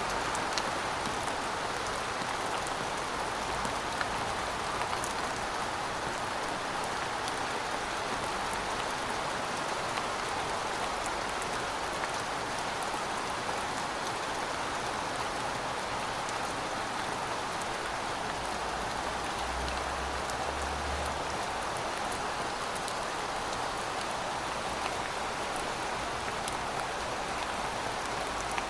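Steady heavy rain, drops pattering on surfaces, with faint scattered drip clicks.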